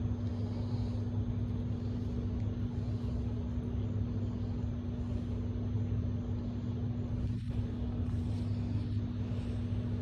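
Steady low mechanical rumble with a constant hum, like a running engine or motor.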